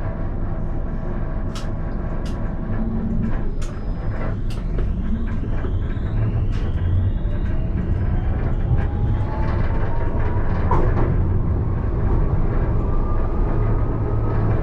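Alstom Citadis tram running on its rails with a steady low rumble and a few sharp clicks from the wheels on the track. From about halfway in, the traction drive's whine rises slowly in pitch as the tram gathers speed.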